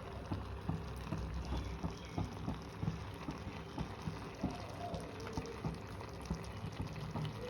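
Irregular soft pops and crackles, several a second, over a low steady hum.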